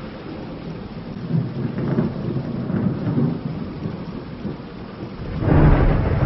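Thunderstorm: steady rain with rolling thunder rumbling, and a louder peal of thunder swelling in about five seconds in.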